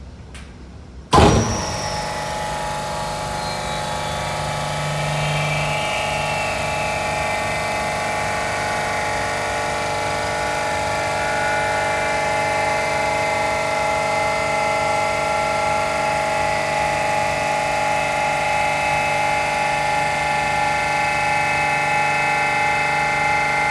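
GEA Bock HGX7/1620-4S semi-hermetic reciprocating refrigeration compressor starting with a sudden loud jolt about a second in, then running steadily on its test run with a low hum and a set of steady tones.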